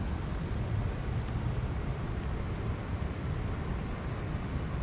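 Insects, crickets or similar, trilling steadily in one high, even band, over a steady rushing background noise.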